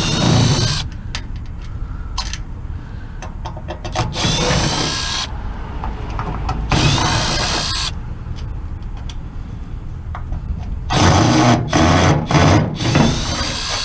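Power drill-driver running in short bursts, seven in all, each spinning up with a rising whine, the last four in quick succession near the end: backing screws out of a scrap microwave oven's casing to get at its transformer.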